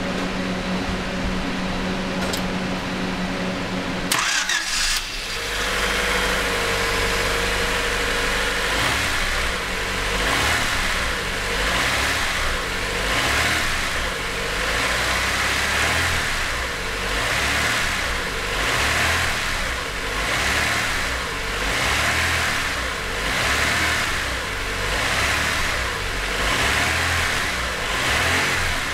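A steady hum for about four seconds, then a freshly rebuilt Honda D16Z6 1.6-litre four-cylinder cranks and fires almost at once on its first start. It settles into running, its speed rising and falling about every two seconds.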